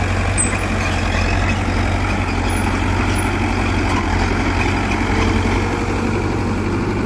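Heavy diesel engine of earth-moving machinery running steadily under load, a low pulsing rumble with no let-up.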